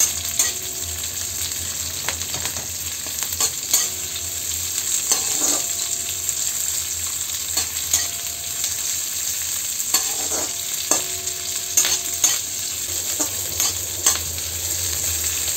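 Garlic, onion and green chillies sizzling as they are lightly fried in mustard oil in a metal wok. A metal spatula stirs them, with irregular clicks and scrapes against the pan.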